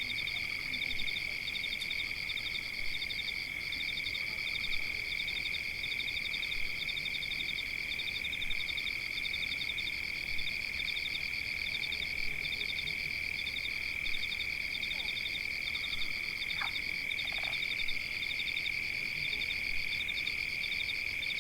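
A continuous high-pitched chorus of calling animals: a steady trill layered with rapid pulsed calls that repeat about once a second. Two faint short chirps come in about two-thirds of the way through.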